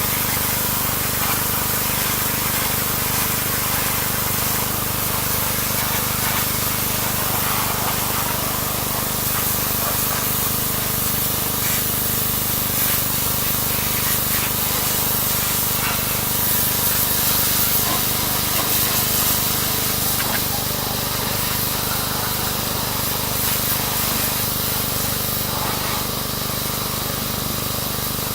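Pressure washer spraying steadily, a continuous hiss of water with a steady low hum underneath.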